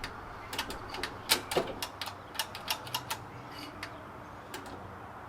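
A quick, uneven run of about fifteen sharp mechanical clicks and taps over a faint steady background, dying away about three seconds in.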